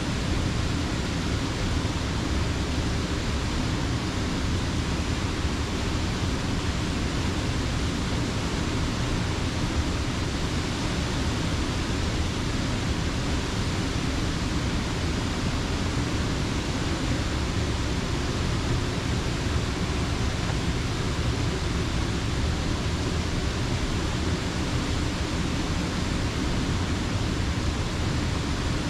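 Creek water pouring over a mill dam: a steady, unbroken rush, heaviest in the low notes.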